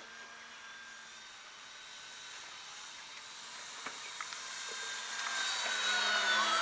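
Electric RC airplane's motor and propeller whining in flight, a steady high whine that grows louder as the plane comes closer, with a slight drop in pitch as it passes near the end.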